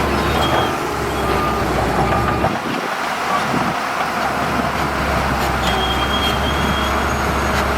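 Diesel engines of heavy earthmoving machinery, dump trucks and a bulldozer, running steadily as they work on a sand fill.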